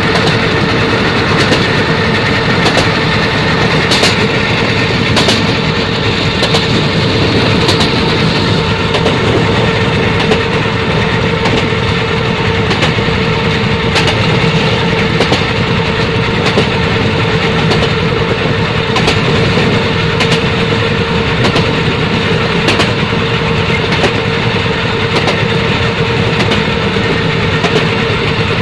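Moving train running on the track: a loud, steady rumble with a steady hum, and a sharp click about every second and a quarter as the wheels pass the rail joints.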